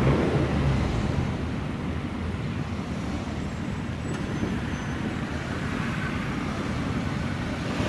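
A car engine running loudly and fading away over the first two seconds as the car moves off, followed by steady road and traffic noise.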